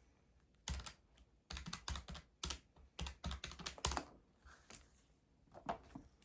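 Keys being tapped in a quick, uneven run, busiest from about a second and a half to four seconds in, then a few scattered taps.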